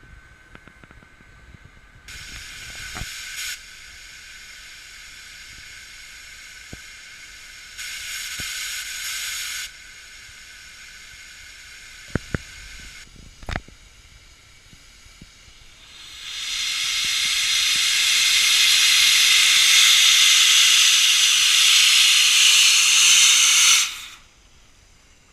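Steam locomotive venting steam: two short hisses, then a long loud hiss lasting about eight seconds that cuts off suddenly. A few sharp clicks come between them.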